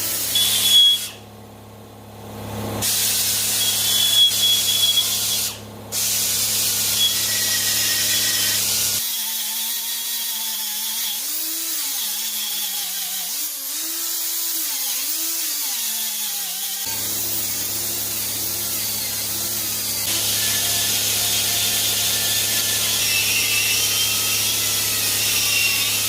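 High-speed power grinding tool cutting into cast aluminum, chamfering the edges of cracks in a motorcycle rearset mount to form a groove for welding. Its pitch wavers up and down as the tool is loaded. It drops away briefly about a second in.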